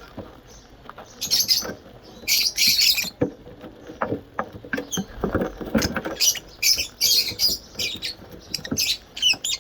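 Pet birds chattering in short bursts of high, squeaky chirps, mixed with soft clicks and taps, as they eat soft food.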